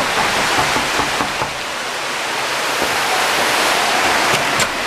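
Steady rush of flowing water, an even hiss with no break, with a couple of short clicks near the end.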